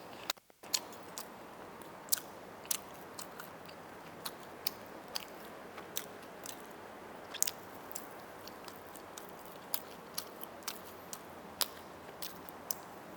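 Close-miked eating: a person chewing roast chicken, with many irregular sharp wet clicks and smacks from the mouth over a steady hiss.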